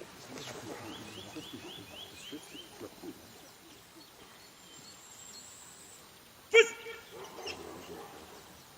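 Animal calls: a quick run of about six short rising chirps near the start, then one loud, sharp, pitched call about six and a half seconds in.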